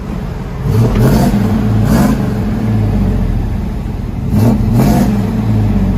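1994 Chevy Silverado 1500's 5.7-litre V8 revving through a true dual exhaust with an X-pipe, high-flow cats and Borla Pro XS mufflers. The throttle is blipped twice, about a second in and again at about four and a half seconds, and the engine drops back to idle between the revs.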